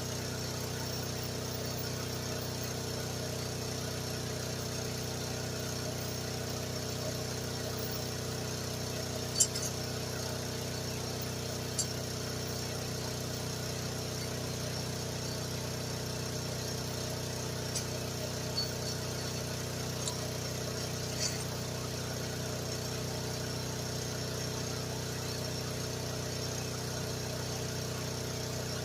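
GroundHog KH14G mini excavator's engine running at a steady speed, with a few brief sharp clanks from the machine at work, the loudest about nine seconds in.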